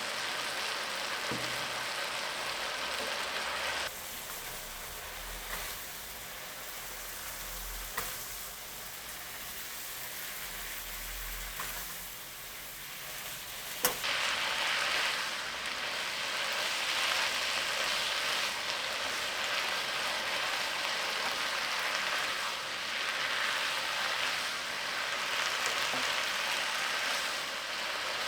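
Food sizzling in a hot pan, a steady hiss broken by a few sharp clicks, the loudest about halfway through.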